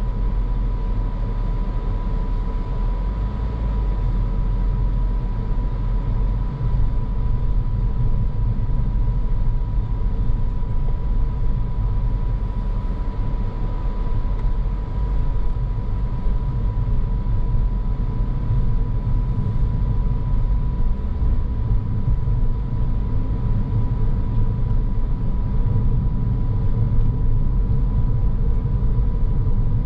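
Car driving steadily, with a low rumble of road and tyre noise and a thin steady high tone over it.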